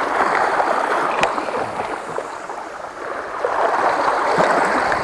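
Sea water washing and surging among shoreline rocks, easing in the middle and swelling again near the end, with a brief tick about a second in.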